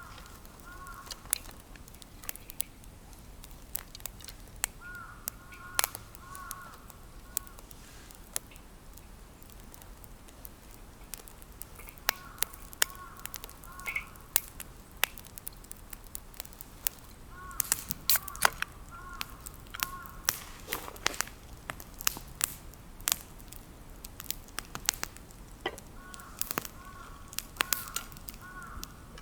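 Campfire wood crackling with sharp, irregular snaps and pops, while a bird calls in short runs of three or four notes every five to seven seconds.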